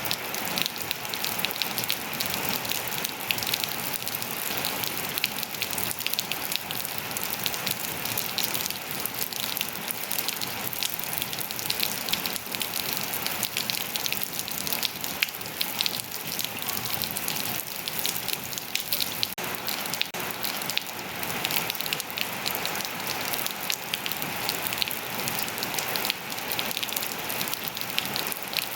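Steady rain falling, a dense hiss sprinkled with many small drop ticks on hard and leafy surfaces.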